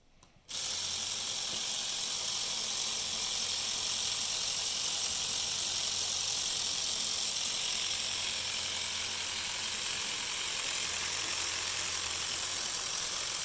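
Small electric motor turning the LEGO Technic 42110 Land Rover Defender's inline-six piston engine, its plastic pistons and crankshaft running together in a steady whir. It starts suddenly about half a second in and keeps an even pace.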